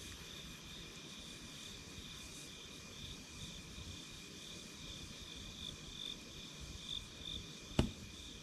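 Night insects calling steadily at two high pitches, the higher one pulsing, over a low wood-fire hiss, with one sharp campfire pop near the end.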